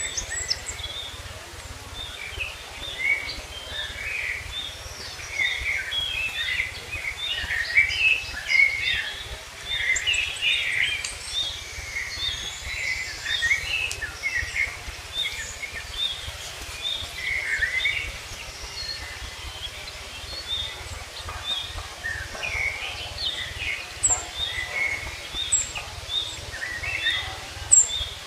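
Several small birds chirping and singing, with one repeating a short note at a steady pace through the second half, over a steady low rumble.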